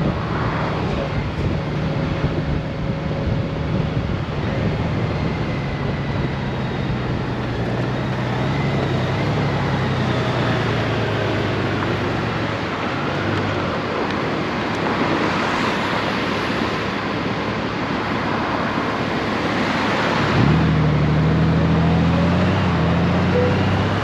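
Honda Gold Wing motorcycle engine running while riding, under wind and road noise. About twenty seconds in, the engine note steps up higher and louder as the bike accelerates.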